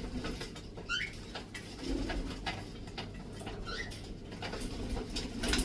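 Pet parrots calling, with two short rising chirps, one about a second in and one near the end, over soft clicking and shuffling.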